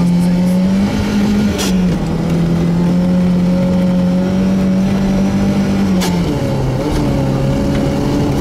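Volvo 240 rally car's engine heard from inside the cabin, running hard at steady revs. Its pitch rises briefly about a second in and drops back, then falls about six seconds in, with a sharp knock just before each drop.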